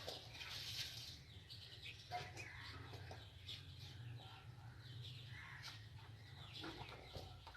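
Faint bird sounds, short scattered chirps and rustles, over a low steady hum.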